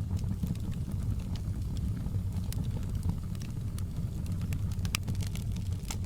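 Wood fire burning in a fireplace: a steady low rumble of flames with scattered crackles and pops, the sharpest about five seconds in.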